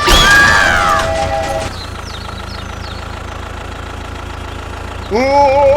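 A loud pitched sound with falling glides, then a steady low engine-like hum for about three seconds, then a loud rising, wavering pitched sound near the end.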